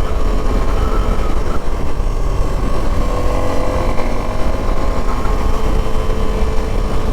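Suzuki V-Strom SX 250's single-cylinder engine running steadily while the motorcycle is ridden, its pitch drifting a little with the throttle, under a heavy low rumble of wind and road noise.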